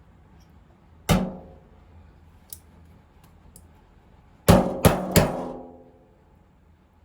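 Sharp metallic knocks, each ringing briefly: one single knock, then about three seconds later three in quick succession about a third of a second apart, with a few faint clicks between them.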